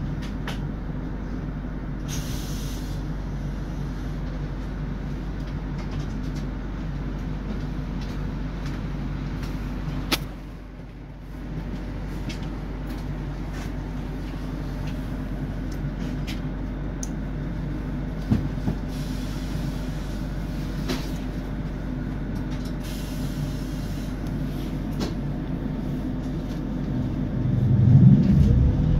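ABB UBp thyristor-controlled electric train running: a steady hum and rumble with scattered clicks. It drops away briefly about ten seconds in and grows louder near the end.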